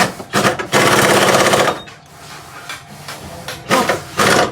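Pneumatic impact wrench hammering in two bursts of about a second each, a fast loud rattle, with a short burst at the very start.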